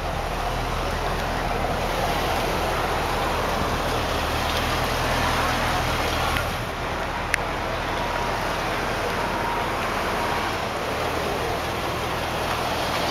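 A car engine idling, a low steady hum under a steady rush of outdoor background noise.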